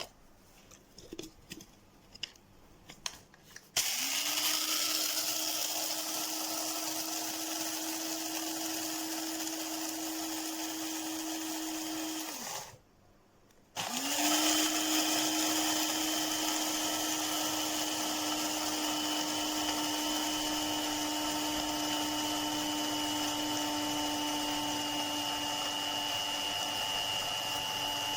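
A few clicks of handling, then an Amazon Basics electric coffee grinder's motor spins up and runs steadily for about nine seconds. It winds down and stops, and after a second's pause it starts again and keeps running.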